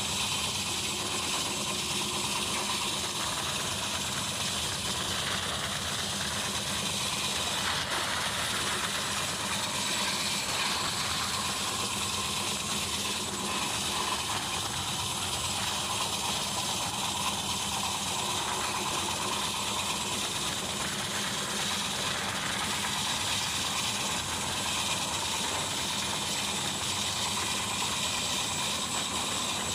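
Passenger express train running steadily at speed, heard from an open window of one of its coaches: the even rush and rattle of the coach on the rails, mixed with rushing wind.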